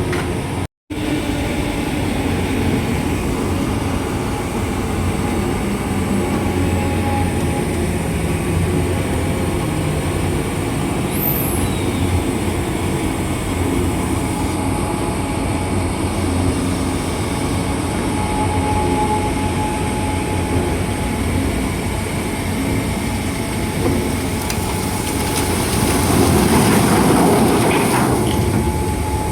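Heavy diesel machinery at a sugarcane truck unloading site running with a steady low rumble. A thin high squeal comes and goes, and the sound swells briefly near the end.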